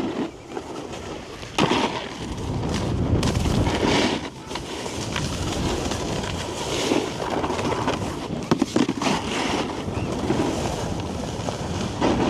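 Snowboard sliding and scraping over packed snow, its edges rasping as it turns, with wind buffeting the rider's microphone. Sharp knocks come about a second and a half in and a few more near the middle.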